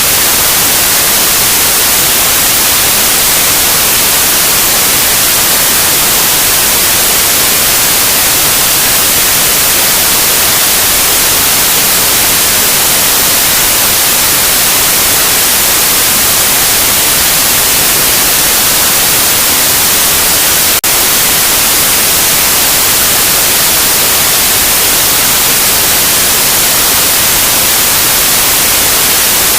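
Loud, steady synthetic white noise, an even hiss across all pitches, with one tiny dropout about two-thirds of the way through.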